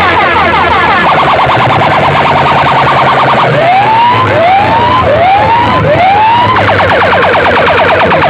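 Loud electronic siren effects played through a big loudspeaker sound system. A rapid warbling yelp gives way a few seconds in to four rising whoops, then the fast warble comes back near the end.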